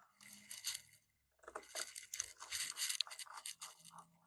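Rustling and scraping handling noise with small clicks, in a short spell and then a longer one, as the negative battery cable and its terminal bolt are fitted to the battery.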